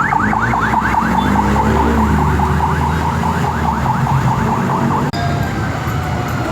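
Fire engine's electronic siren on a fast yelp, rapid rising sweeps about five a second, over the low rumble of the truck's engine. About five seconds in it breaks off abruptly, leaving a fainter, slower siren tone.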